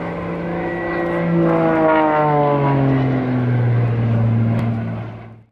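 An aircraft flying past with a loud engine drone whose pitch drops steadily as it goes by. The sound cuts off abruptly at the very end.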